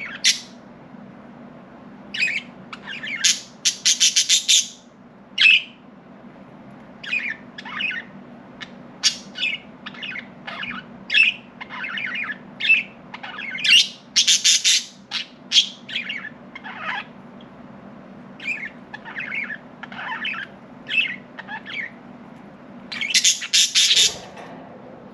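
Budgerigars chirping: many short calls one after another, with bursts of rapid harsh chatter about four seconds in, in the middle and near the end. A steady low hum runs underneath.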